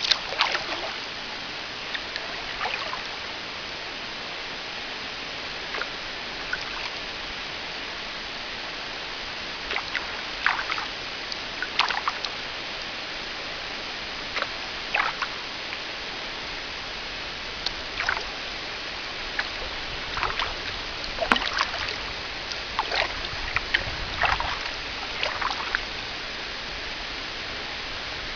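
Kayak paddle strokes dipping and splashing in the water at irregular intervals, over a steady rushing hiss.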